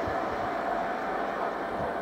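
Electric Sprinter commuter train running on past a level crossing, its rumble fading steadily as it moves away, with a faint steady whine.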